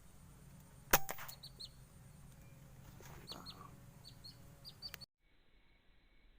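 A single sharp air-rifle shot about a second in, followed by a series of short, high bird chirps. The sound cuts off abruptly about five seconds in.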